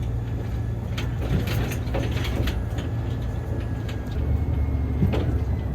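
A motor vehicle engine running steadily, a low rumble with a faint thin whine above it and a few small clicks.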